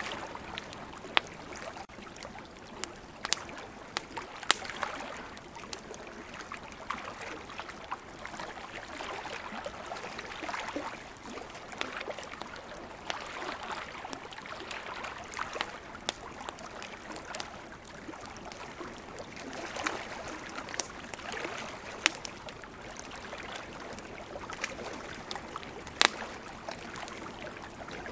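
Campfire crackling, with sharp pops scattered irregularly, over the steady swelling wash of ocean waves.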